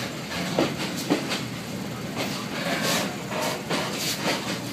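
Yangon Circular Railway passenger coach running along the track: a steady rumble of wheels on rail, with irregular knocks and rattles from the carriage.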